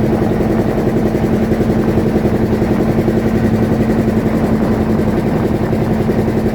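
Fishing boat's engine running steadily, a loud, even drone with a fast regular pulse.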